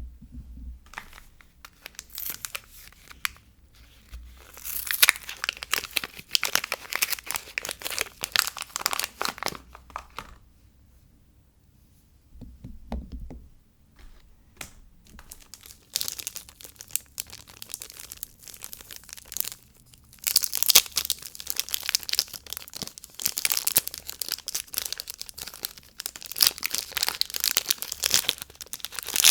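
Soap packaging being torn open and crinkled by hand, in long stretches of crackly rustling and tearing with a quieter pause of a couple of seconds partway through.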